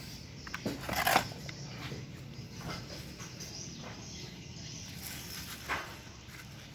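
A few short clicks and knocks over a low steady hum, the loudest about a second in and another near the end, as of something being handled; no engine is running.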